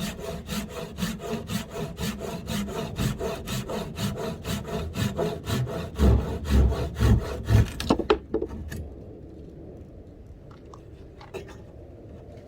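Hand saw cutting through wood in quick, regular strokes, about four a second, with heavier, deeper knocks in the last couple of seconds of sawing. The sawing stops about eight seconds in, leaving only a few light clicks.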